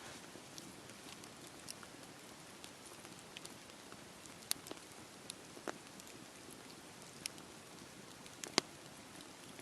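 Steady rain pattering with a campfire crackling, scattered sharp pops and ticks over a soft hiss; the loudest pop comes about eight and a half seconds in.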